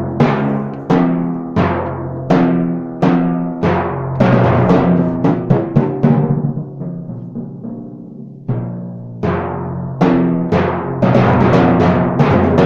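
A solo on four timpani: single strokes in an uneven rhythm, each drum ringing at its own pitch as it dies away. The notes thin out and fade past the middle, then a loud stroke comes and a busier run of strokes follows near the end.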